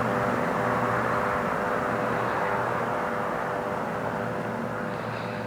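Aircraft engine noise from an airplane in flight: a steady drone with a hum of steady tones, easing slightly toward the end.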